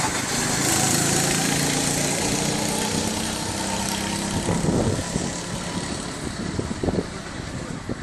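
Small single-cylinder go-kart engine running, its note shifting a little, then fading away after about five seconds, with a few short knocks.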